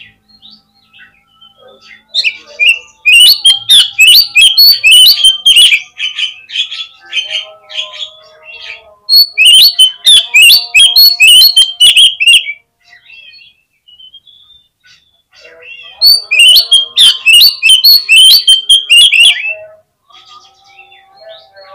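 Oriental magpie-robin (kacer) singing in three loud bursts of fast, chattering song with quieter calls between them. This is the kind of lure recording played to a captive kacer to provoke it to answer.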